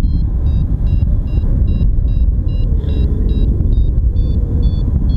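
A paragliding variometer beeping in a steady series, about two to three short beeps a second, the audio signal that the glider is climbing in lift. Under it, heavy wind rumble on the microphone from the airflow in flight.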